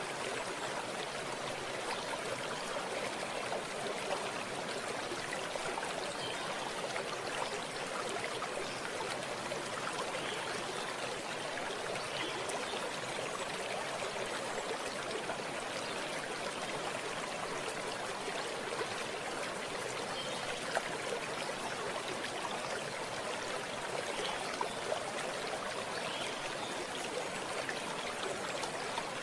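Running water flowing steadily in a natural watercourse, an even rush with no change over the whole stretch.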